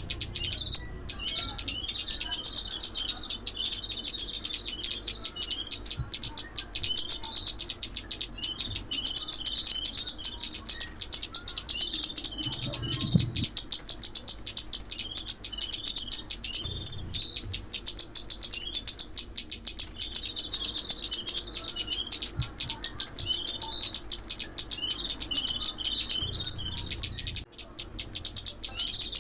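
Sunbird song: a rapid, high-pitched twittering stream of chips and trills that runs almost unbroken, pausing briefly about a second in and again near the end.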